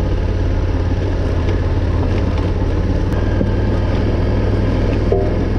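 Adventure motorcycle engine running steadily as it climbs a rocky mountain trail.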